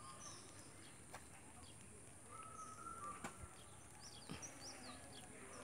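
Faint bird chirps, short high calls in a few small clusters, over quiet outdoor background, with a thin held whistle a little past the middle and a few faint knocks.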